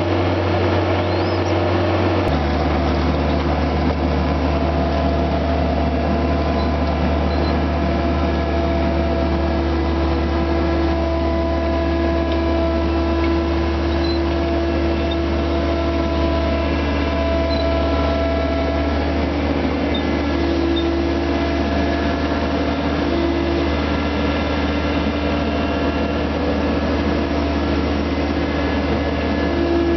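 Skid-steer loader engine running steadily, with several steady whining tones over it; the engine note shifts about two seconds in.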